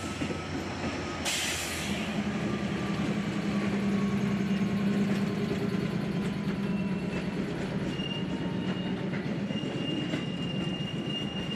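Amtrak GE P32-8BWH diesel locomotive passing at slow speed, hauling a string of auto rack cars: steady rolling noise of the cars on the rails with a low engine drone and a short hiss about a second in. A thin, high wheel squeal rises out of it from about halfway through.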